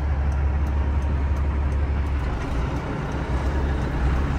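Semi truck's diesel engine running with a steady, low rumble.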